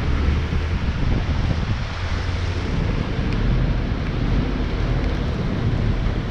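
Heavy diesel logging equipment running steadily, a low rumble with wind noise on the microphone.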